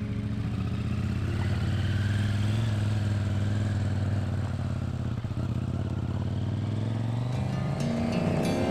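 KTM 790 Adventure R motorcycle's parallel-twin engine running with a steady note, its pitch rising near the end as it revs up.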